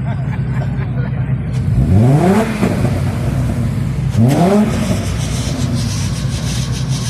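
Ford Mustang engine idling with a steady rumble and revved twice, the pitch rising quickly and dropping back each time, about two seconds in and again about four seconds in.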